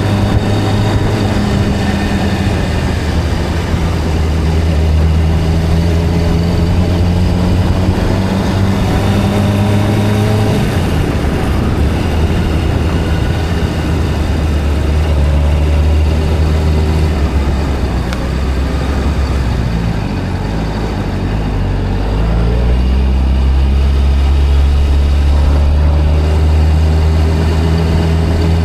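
Honda CBR600RR inline-four engine running steadily while riding, over a steady rush of wind and road noise. The engine note shifts about ten seconds in and wavers again around twenty seconds in before settling back.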